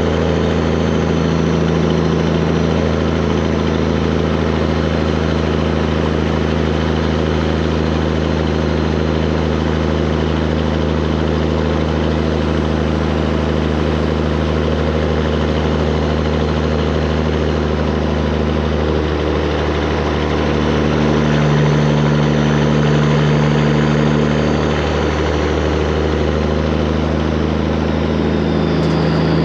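Straight-piped Peterbilt 389 semi truck's diesel engine running steadily with a deep drone; its pitch shifts and it grows a little louder about two-thirds of the way through.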